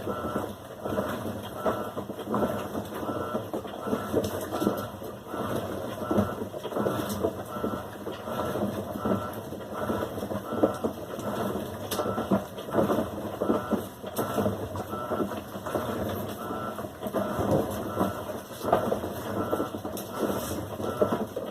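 Electrolux LAC16 washing machine running its wash cycle, the load churning irregularly, with a faint short tone repeating about twice a second.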